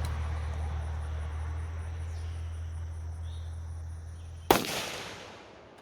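A steady low rumble, then a single loud gunshot near the end, its report trailing off over about a second.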